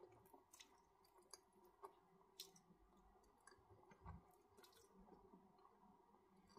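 Quiet, close-up mouth sounds of eating saucy Buldak black bean instant ramen: scattered wet clicks and smacks of chewing, with noodle strands being sucked in about four seconds in.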